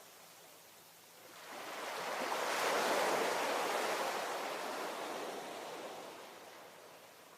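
A single ocean wave breaking on the shore: the surf swells up about a second in, peaks a couple of seconds later, then slowly fades as the water washes back out.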